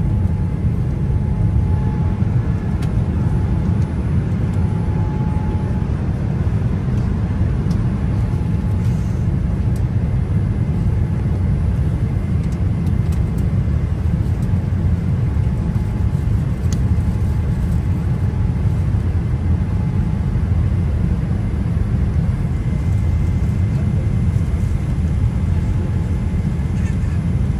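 Airliner cabin noise: engines and airflow making a steady low rumble, with a faint steady hum above it.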